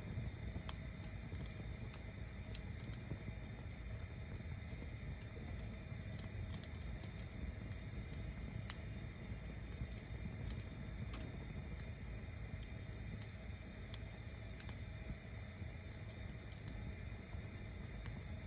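Wood bonfire stacked as a log tower, burning: a steady low rumble of flames with scattered sharp crackles and pops throughout.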